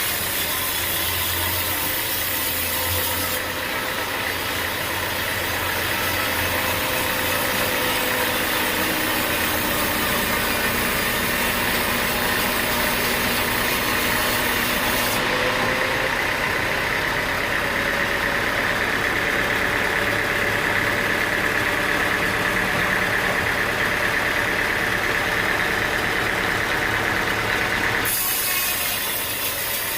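Sawmill machinery running steadily: an engine hum with a steady high whine over it. The sound changes abruptly about three seconds in, near the middle and near the end.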